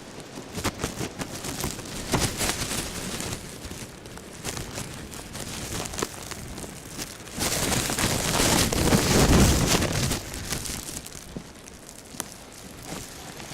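Blizzard wind gusting against the microphone, with a dense patter of crackling ticks like driven snow or ice striking it; a stronger gust swells from about seven and a half seconds in and eases off around ten seconds.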